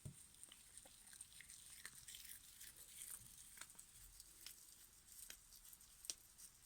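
A cat chewing and tugging at foil Christmas tinsel: faint, irregular crinkles and clicks.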